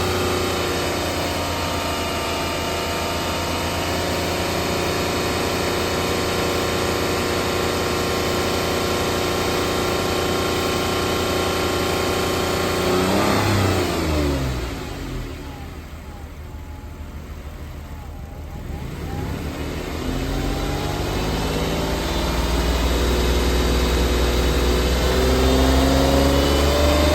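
2006 Chrysler 300's 2.7-litre V6 engine running on a run test: it holds a steady speed, then about halfway its speed falls away sharply and it goes quieter for a few seconds, then its speed climbs gradually again toward the end.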